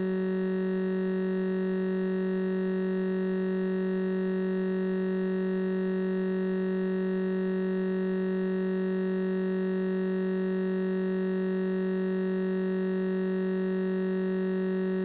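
A steady, unchanging electronic tone: several pitches held together like a sustained synthesizer chord, with a faint buzz and no rhythm or change in level.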